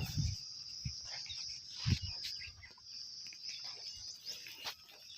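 Steady high-pitched insect drone, with scattered short chirps and a few low thuds, the loudest about two seconds in.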